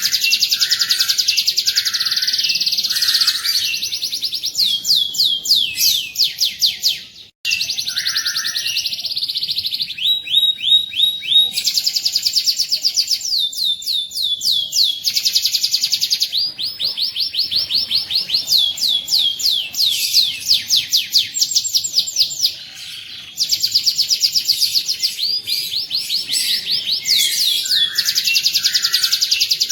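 Canary singing in long, rapid trills (rolls) of repeated high notes, with a few lower separate notes between phrases. The song breaks off suddenly for a moment about seven seconds in and dips briefly again near the end.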